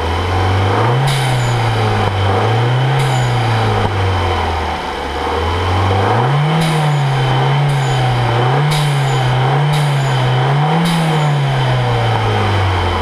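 Alfa Romeo MiTo's turbocharged petrol engine revved in about seven throttle blips, with a short pause in the middle. A short hiss comes from the aftermarket pop-off (blow-off) valve venting as the revs peak and the throttle closes.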